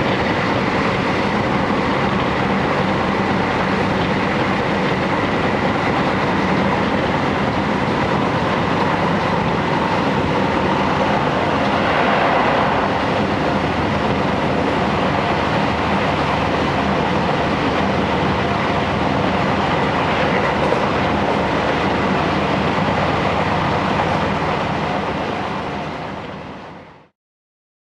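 JR Hokkaido Series 711 electric train running along the line, heard from inside a passenger car as a steady rumble of wheels and running gear. About 24 seconds in it fades out, ending in silence just before the end.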